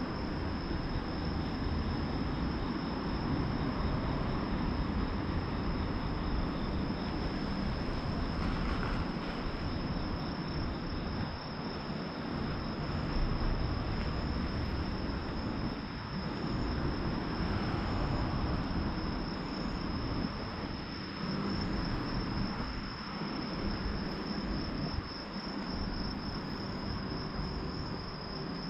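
Crickets singing a continuous high trill, with fainter, higher short chirps repeating about once a second, over a steady low rumble.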